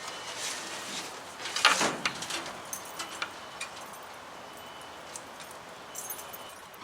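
Keys jingling and small metal clicks and rattles as a key works the lock that secures the pickup's spare tire. The loudest clatter comes about one and a half to two seconds in.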